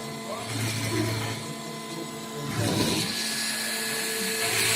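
Program-controlled drilling machine tool running, its motors giving a steady whine with several held tones; it gets louder, with a hiss, a little over halfway through.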